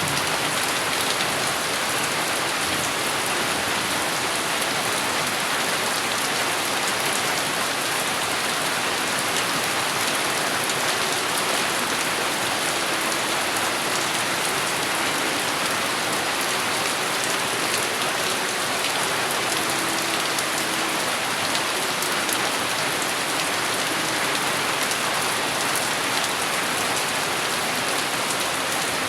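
Steady rain falling and pattering on surfaces, an even downpour without change.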